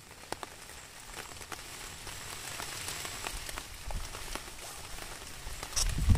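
Steady rain falling, with faint scattered clicks from handling close by and a brief low thump near the end.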